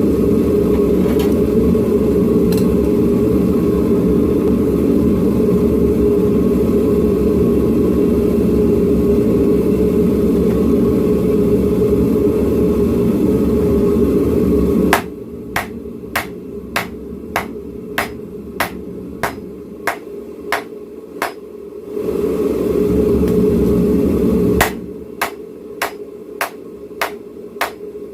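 A forge running with a loud, steady roar, then a hammer striking hot steel on an anvil about two blows a second, shaping a knife blade. Partway through, the blows stop briefly while the forge roar returns, then the hammering resumes.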